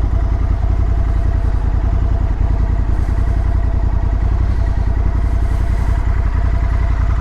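Motorcycle engine running steadily at low revs, with an even fine pulsing that neither rises nor falls.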